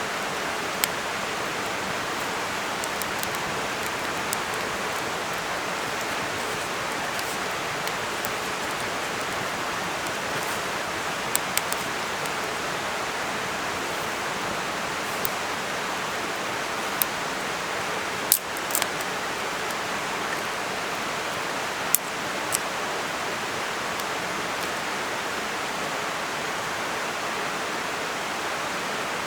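Campfire burning with scattered sharp crackles and pops over a steady rushing hiss; the loudest pops come about two-thirds of the way through.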